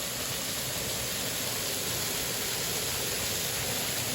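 Waterfall rushing steadily, running full after heavy rain.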